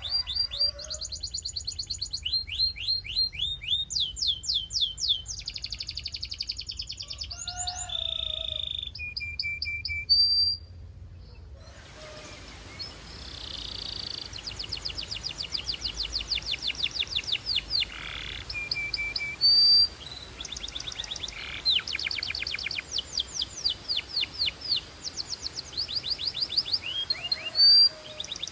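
Belgian canary singing: fast trills of repeated down-sweeping notes, each trill changing to a new pattern every second or two, with a few loud, sharp single notes between them.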